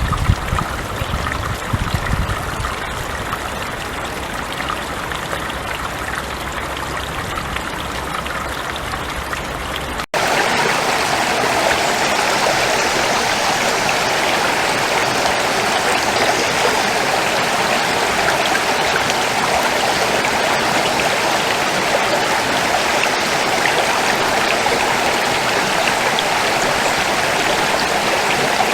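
A forest stream flowing, a steady rush of water with a few low thumps in the first couple of seconds. About ten seconds in there is an abrupt cut to a louder, fuller stretch of rushing water that stays steady.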